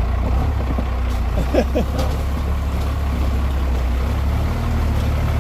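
Square-body pickup truck's engine running low and steady at crawling speed, heard from inside the cab as the truck drives through a creek. A few knocks and squeaks from the truck bouncing come about a second and a half in.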